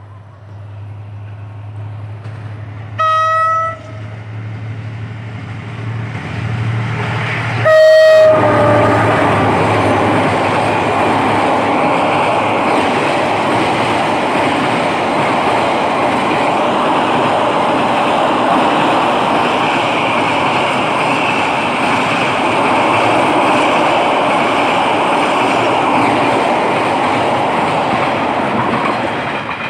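A Vietnam Railways diesel freight train approaches and sounds its horn twice: one blast about three seconds in, then a shorter, louder one just before eight seconds. Its container wagons then roll past close by with a steady rumble and clatter of wheels on the rails, which fades near the end.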